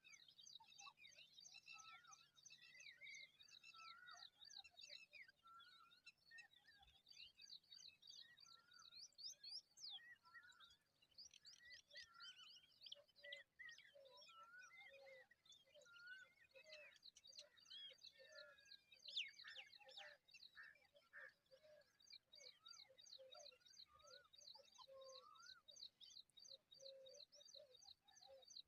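Faint birdsong of several birds: a fast, evenly repeated high trill runs throughout, with varied short whistles and chirps lower in pitch that grow busier about halfway through.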